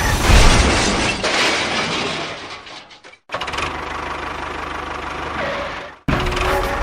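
A machine's motor or engine running loudly with a rough, noisy sound. It cuts off abruptly about three seconds in, and a steadier, evenly pulsing run follows and stops abruptly near the end.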